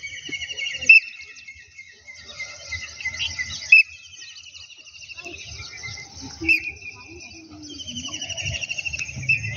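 Birds singing: a fast trilled phrase repeated every few seconds over steady chirping, with faint voices underneath.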